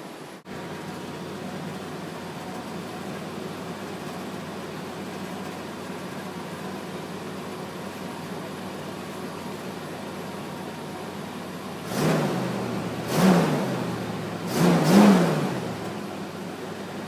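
Chevy S10's 4.3-litre V6 idling steadily, then blipped four times in quick succession near the end, each rev rising and falling back to idle.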